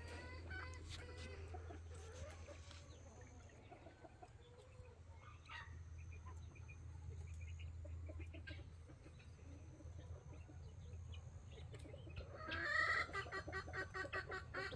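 Quails clucking and calling softly over a faint steady low hum. About twelve seconds in there is a louder, rapid series of calls.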